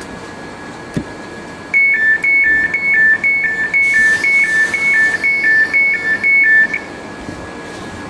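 Train door-closing warning: a two-tone beep alternating high and low, about two pairs a second, sounding for about five seconds from just under two seconds in. A faint steady tone runs underneath.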